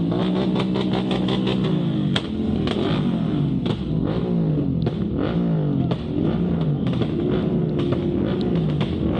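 Motorcycle engine running on the move, its pitch rising and falling again and again as the throttle opens and closes.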